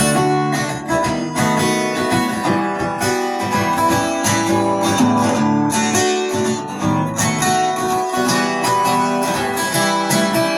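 Acoustic guitar strummed in a steady rhythm as a song's instrumental intro, starting suddenly.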